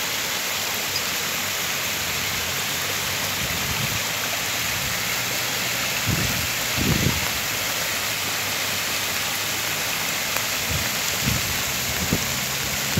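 Heavy rain falling on a car's roof and windshield, heard from inside the car as a steady hiss. A few low thumps come about six and seven seconds in and again near the end.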